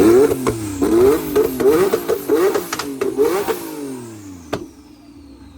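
Turbocharged car engine revved in quick repeated throttle blips, its pitch climbing and dropping about three times a second, with a few sharp cracks in the exhaust. The revving dies away after about four seconds with one last crack, followed by a thin falling whine.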